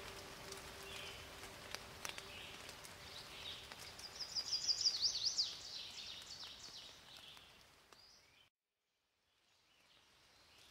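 Faint outdoor ambience with birds chirping, including a quick run of high chirps about four seconds in. It fades out to silence about eight seconds in, then faintly returns.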